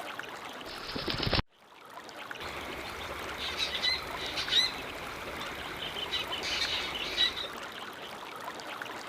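Water trickling steadily, with a few short, high bird chirps over it, a couple about four seconds in and more near seven seconds. The sound cuts out briefly about a second and a half in, then comes back.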